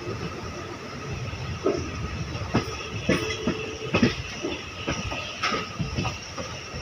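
Passenger train coach running along the track, heard from its open doorway: a steady rumble of the wheels with irregular clacks and knocks.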